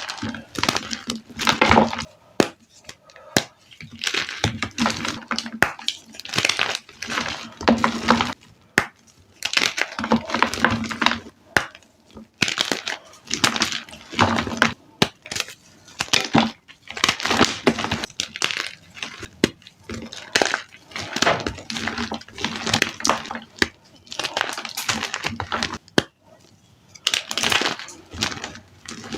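Reformed gym chalk blocks being crushed, crunching and crumbling with a gritty crackle in repeated bursts of a second or two, with sharp snaps and short pauses between.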